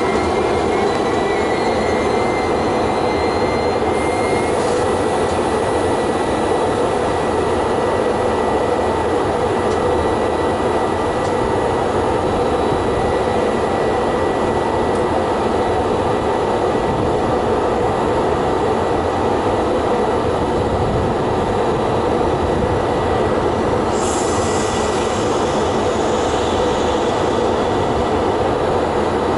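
Trenitalia regional passenger train on the station track: a steady, even rushing noise with a faint high whine and no wheel clacks. A brighter hiss joins about 24 seconds in.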